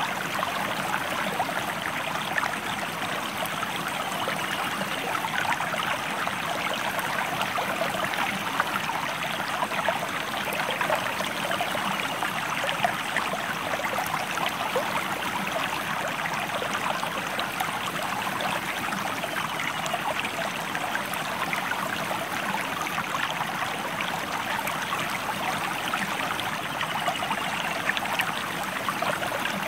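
Running river water, a steady splashing rush with no break.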